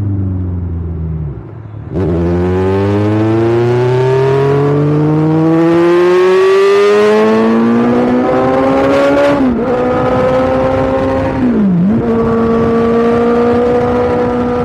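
Kawasaki Ninja 1000's inline-four engine and exhaust under way: revs falling off, a short lull about a second and a half in, then a steady climb in revs for about seven seconds. After that it holds an even pitch, broken by two quick dips and recoveries as the throttle is briefly eased.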